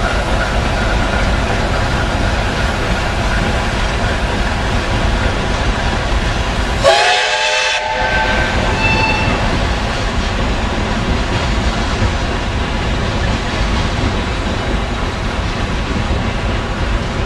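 A steam-hauled passenger train running, a steady noise throughout. About seven seconds in, a brief pitched sound rises over it for about a second.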